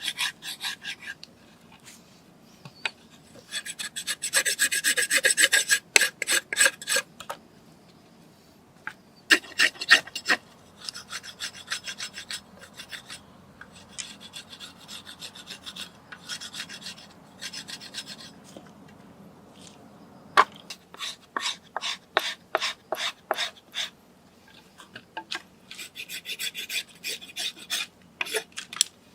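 Repeated rasping strokes of a hand tool working wood, in quick runs of strokes with short pauses between.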